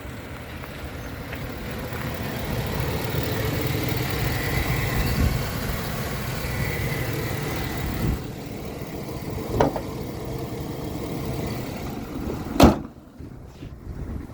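2010 Chevrolet Express 3500 dump truck's engine running steadily, with a sharp knock a little over halfway through and a loud thump near the end.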